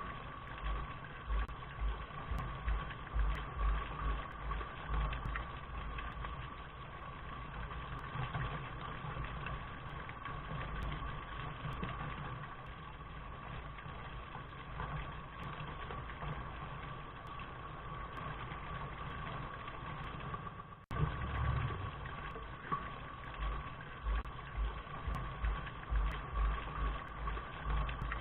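Steady rain-like noise with an uneven low rumble underneath. The sound breaks off for an instant about 21 seconds in and starts again, as where a looped recording rejoins.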